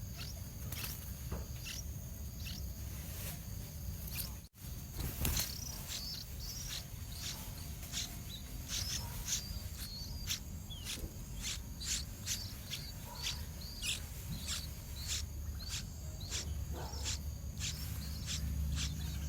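Yellow-vented bulbul (trucukan) calling: short, sharp high chirps repeated about once or twice a second, over a low rumble. The sound cuts out briefly about four and a half seconds in.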